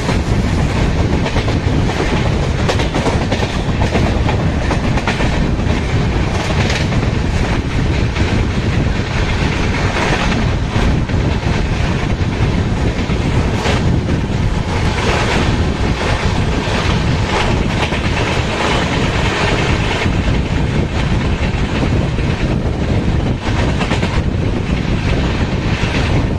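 Express passenger train running at high speed, heard from on board: a steady loud rumble of steel wheels on the rails with rapid, irregular clickety-clack.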